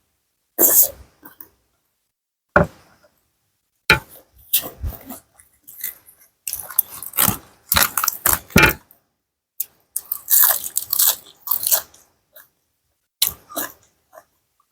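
A person chewing and crunching mouthfuls of tam sua, Lao-style papaya salad with pickled seafood, in close irregular bites with short pauses between them.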